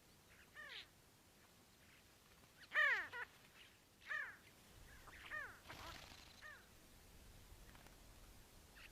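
A bird calling repeatedly: about six short calls, each falling in pitch, the loudest about three seconds in.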